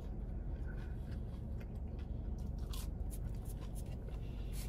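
Someone eating: faint crunches and clicks, most of them in the second half, over a steady low hum.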